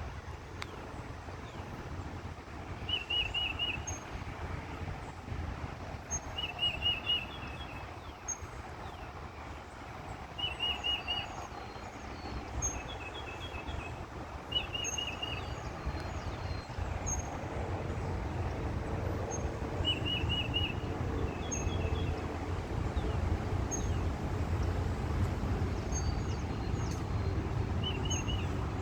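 A small songbird repeating a short, quick phrase of about four high notes every three to four seconds, with faint higher chips between. Under it runs a low steady rumble that grows louder in the second half.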